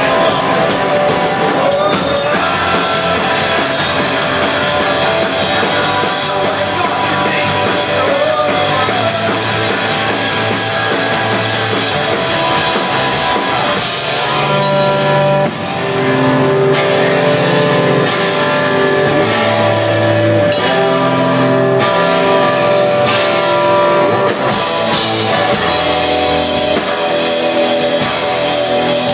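Live rock band playing an instrumental passage with electric guitar and drums, loud and full throughout. About halfway through the sound thins to clearer, held guitar notes over the drums.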